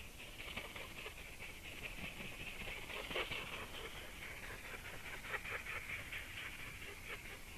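Common raven making strange rapid clicking and rattling calls, with sharper clicks about 3 seconds in and again near 5.5 seconds.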